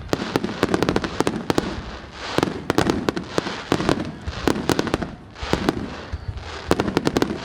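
Fireworks display: rapid volleys of sharp bangs and cracks, several a second, with brief lulls between volleys.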